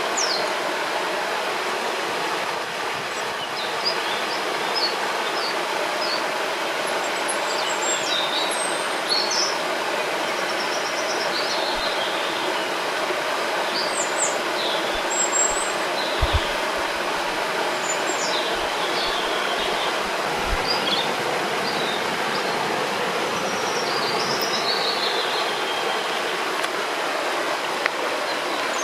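Steady rushing of a river or waterfall, with small birds chirping and whistling above it throughout. A couple of brief low thumps come about halfway through.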